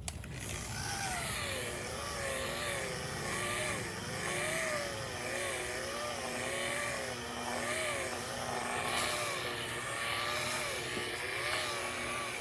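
An electric power tool's motor running, its pitch dipping and rising about once a second as it is worked against the piece, with a hiss from the cutting or sanding.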